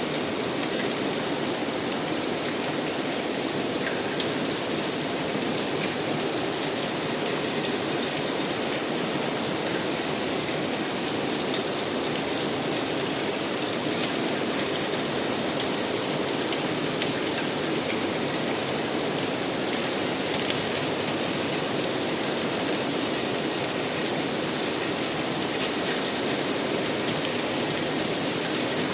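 Steady rain falling, an even hiss of drops with occasional faint ticks of drops striking a surface.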